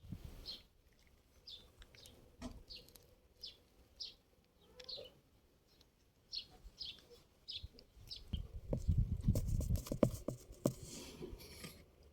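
A bird chirping: short, high chirps repeated every half second to a second. About eight seconds in there are a few seconds of louder low rustling and clattering.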